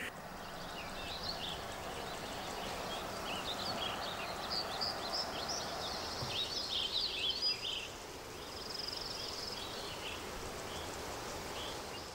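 Outdoor ambience: a steady hush with many short, high bird chirps over the first seven seconds or so, and a brief high trill about nine seconds in.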